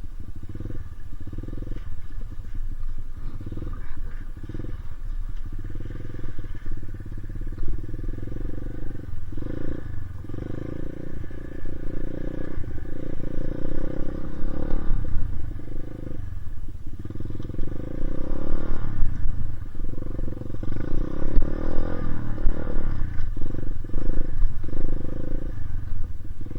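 Dirt bike engine running under throttle, dropping off briefly every few seconds and picking up again, and louder in the second half.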